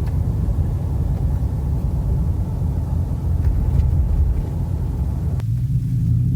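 Ford F-150's 5.0 V8 with an aftermarket WWP dual exhaust rumbling steadily as the truck drives, with road noise. About five seconds in, the road noise drops and the exhaust note climbs in pitch.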